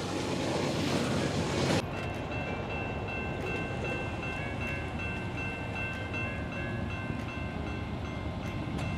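A freight train's cars rolling past for about the first two seconds, then an abrupt switch to diesel locomotives approaching under load, their rumble carrying a steady high-pitched whine.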